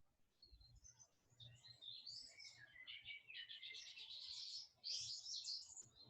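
Faint bird chirps and song: many short high notes that run into quick twittering trills between about two and six seconds in.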